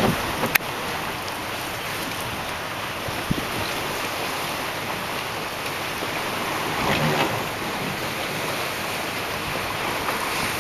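Steady rushing wind, buffeting the microphone, with water washing against the dock and floats; a brief sharp knock about half a second in.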